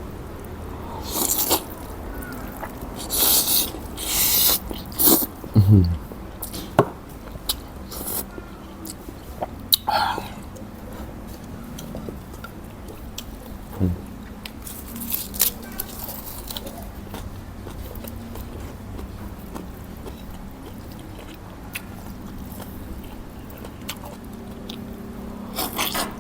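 A person eating a bowl of thin-rice-noodle nam tok soup: slurping noodles and chewing in irregular bursts, busiest in the first few seconds and again around the middle, then quieter chewing.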